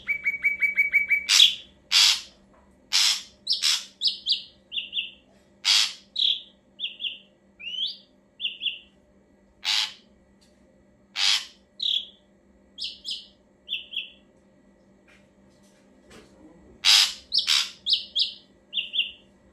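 Ashy drongo singing: it opens with a quick trill of about a dozen even notes, then alternates loud, sharp calls with short clear whistles roughly once a second, falls silent for a couple of seconds, and ends with a fast cluster of calls and whistles.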